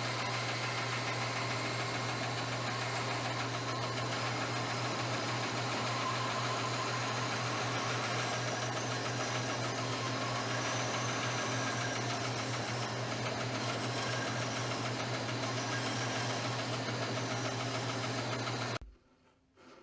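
Woodworking power tool running steadily with a constant motor hum, cutting off suddenly near the end.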